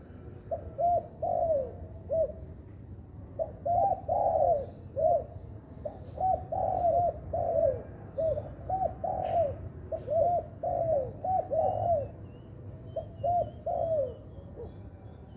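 Spotted dove (tekukur) cooing over and over in quick phrases of short, falling notes, over a steady low hum. Faint high chirps of a smaller bird come in near the end.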